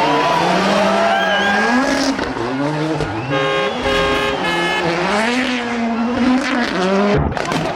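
Rally car engine being driven hard, its note climbing and falling several times as it accelerates and shifts, held at one steady high pitch for about a second in the middle. The sound drops out abruptly for a moment near the end.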